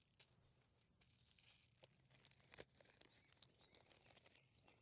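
Near silence, with a few faint scattered clicks and light rustling.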